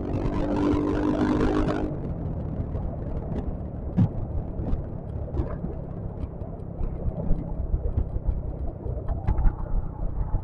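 Riding noise from a Yamaha XMAX scooter on the move: a steady low rumble of engine, wind and road, with scattered short knocks. For about the first two seconds a pitched hum with several tones sits on top.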